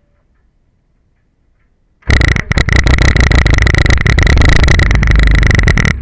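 Ariel Atom engine starting about two seconds in, then running very loud on the onboard microphone with brief crackling dropouts.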